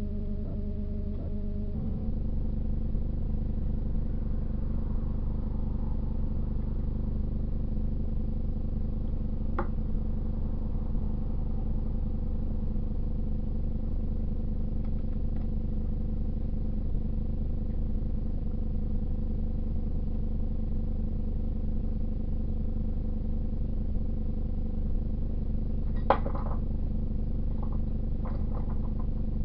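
A steady low mechanical hum, with a few sharp clicks about ten seconds in and again near the end.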